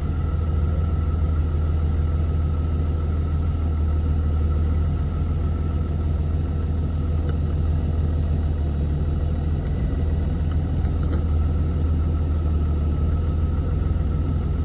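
Cab interior sound of a Dodge Ram 2500's 6.7-litre Cummins inline-six turbodiesel and freshly rebuilt G56 manual drivetrain driving along at a steady pace. There is a steady low rumble with a faint, even high tone above it.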